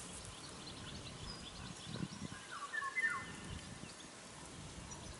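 Birds calling in the background: short high chirps, with a brief cluster of calls between two and three seconds in. Over them come a couple of soft low knocks, about two and three seconds in.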